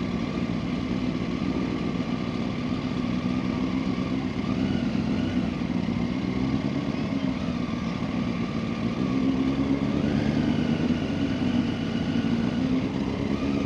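Motorcycle engine running steadily at low speed, its pitch wavering slightly up and down and getting a little louder about two-thirds of the way through.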